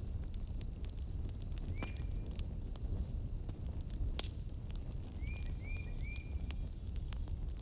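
Wood fire crackling, with frequent sharp pops and snaps over a low rumble. A short chirp sounds about two seconds in and three more a little past the middle, over a steady high-pitched hum.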